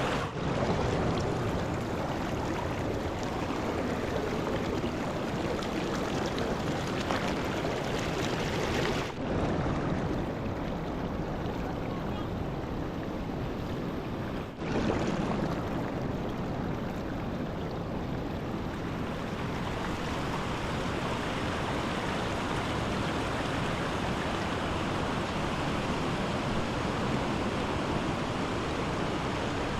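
Steady rush of a fast-flowing mountain river, an even wash of water noise that dips briefly twice.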